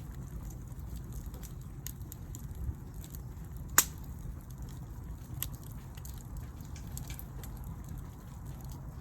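Wood campfire crackling, with scattered small pops and one loud sharp pop about four seconds in, over a low steady rumble.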